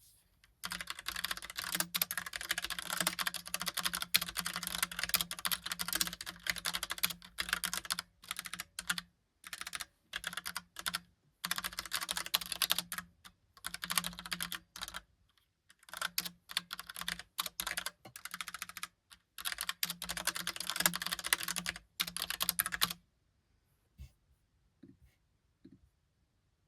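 Logicool (Logitech) Pop Keys mechanical keyboard with typewriter-style keycaps being typed on quickly: rapid runs of key clicks broken by short pauses. Near the end the typing stops, leaving a few single key clicks.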